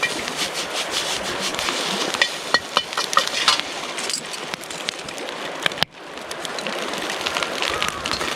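Metal ladle clanking and scraping against a Chinese wok while stir-frying fried rice, in quick irregular strikes that ring briefly, over a steady hiss. The sound cuts out for an instant just before six seconds in, then the clanking goes on.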